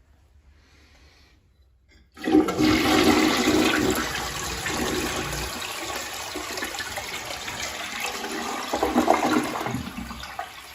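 Toilet flushing: a sudden rush of water about two seconds in, then the bowl washing and draining, easing off near the end.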